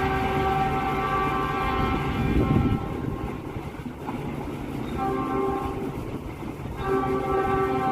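Locomotive horn of the Argo Bromo Anggrek express train sounding as it runs through the station at speed, over the rumble of the train. There is one long blast, a short one about five seconds in, and another starting near the end.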